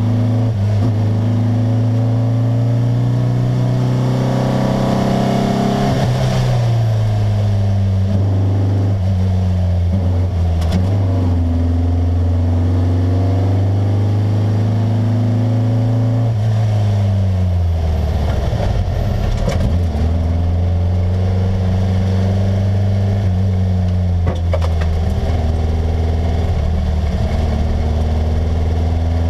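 Volkswagen Beetle rally car's air-cooled flat-four engine under hard load, heard from inside the cabin. Its pitch holds high, drops sharply about six seconds in and again about seventeen seconds in as the car slows, then climbs back up. A few sharp knocks and clicks sound over the engine.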